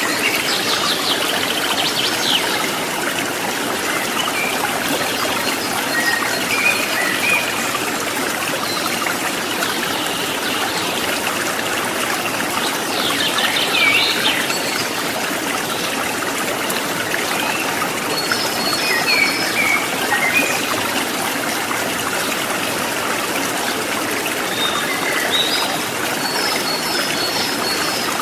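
Stream water trickling and splashing steadily over rocks, with a few short bird chirps now and then.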